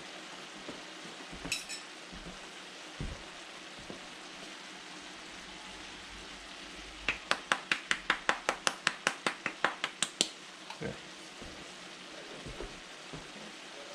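Food sizzling steadily in a cast-iron skillet. About halfway through, a spice jar is shaken over the pan: a quick run of about twenty sharp clicks over some three seconds.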